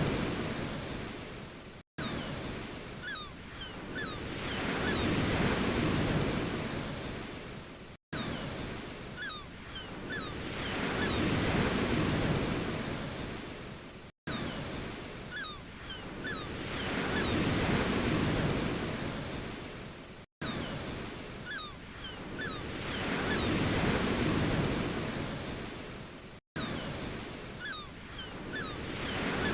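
Ocean waves rushing in and washing back, each swell building and fading over about six seconds. It is one short recording looped, with a brief silent dropout between repeats.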